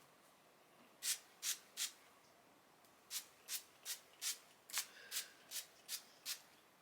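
Hand-pumped mist spray bottle spritzing in short hissing bursts: three quick sprays, a pause, then nine more at an even pace of about two and a half a second.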